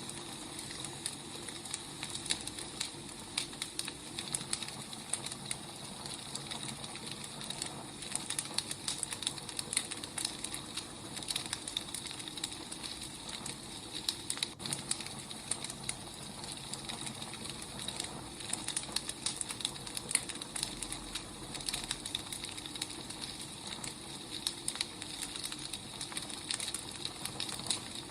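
Wood fire crackling: many small irregular pops and snaps over a steady low hiss.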